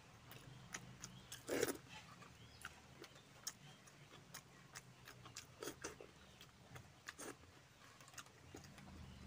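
Faint close-up eating sounds: scattered small clicks of chewing and lip-smacking as rice and chicken curry are eaten by hand, with fingers working through rice on a banana leaf. One louder smack comes about a second and a half in.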